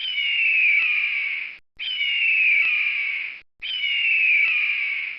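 An eagle's call: a long, high, falling scream, played three times in a row about every 1.8 seconds as the same recording looped.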